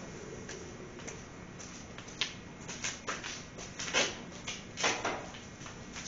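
Metal strap hook clinking and knocking against the generator's frame as it is hooked on, in a run of irregular sharp clicks, the loudest about four seconds in.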